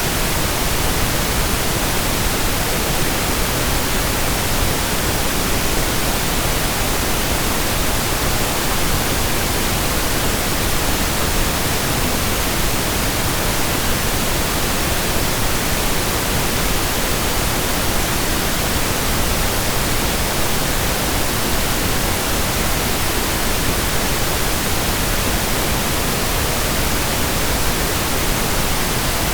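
Steady pink noise: an even, unchanging hiss spread across all pitches, softer in the highs than white noise.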